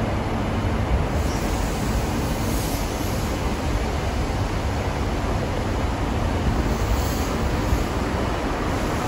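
Great Western Railway passenger train running past alongside the platform: a steady, unbroken running noise of wheels and carriages on the rails.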